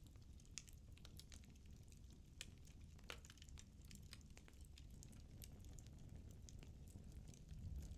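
Wood fire burning in a fireplace, crackling faintly: irregular small pops and snaps over a low, steady rumble.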